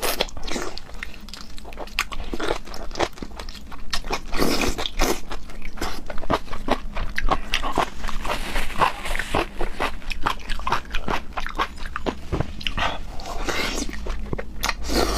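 Close-miked eating of scallop: wet chewing and lip-smacking in a dense run of short clicks, with a few longer slurping sounds.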